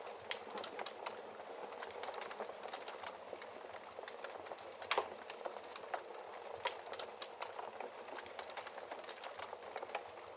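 Wood fire burning in a fireplace: a steady hiss with frequent crackles and sharp pops, the loudest pop about five seconds in.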